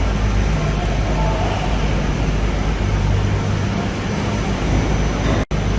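Steady running noise of a moving vehicle heard from inside: a low hum under an even rushing noise, breaking off for an instant near the end.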